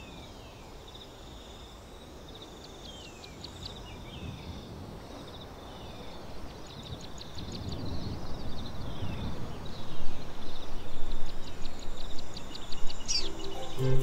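Cape sugarbird singing: rapid series of high ticking notes mixed with short falling whistles. Under it is a low rushing noise that grows louder about halfway through.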